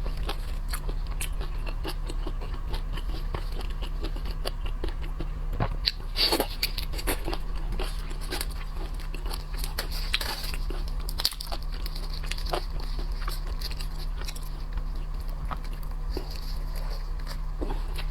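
Close-miked eating of shrimp and other shellfish: biting, chewing and crackling of shells as many short clicks, busiest about six and ten seconds in, over a steady low electrical hum.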